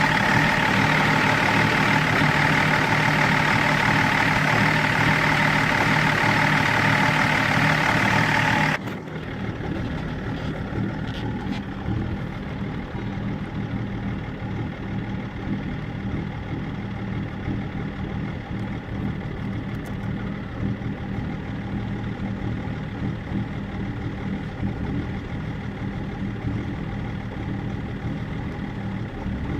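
BMW E39 530d's 3.0-litre straight-six diesel engine idling, the rough idle the owner is chasing. About nine seconds in the sound drops abruptly to a quieter, duller idle that runs on steadily.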